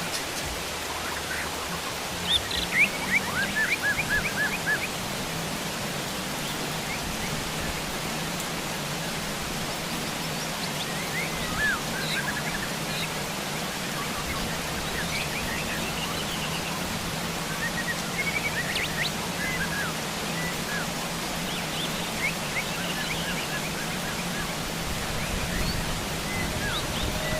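Heavy rain falling steadily, with wild birds giving short chirps and calls throughout, a quick run of chirps a few seconds in.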